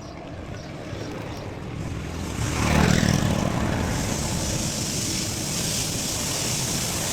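Mountain bike rolling along a trail with wind rushing over the chest-mounted action camera's microphone; the rush swells about two and a half seconds in and stays loud.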